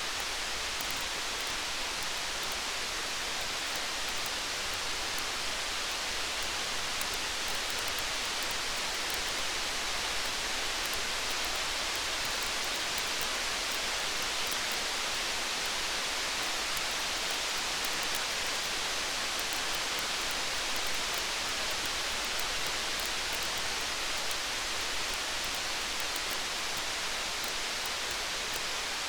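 Steady rain hiss mixed with the faint, scattered crackle of a wood campfire.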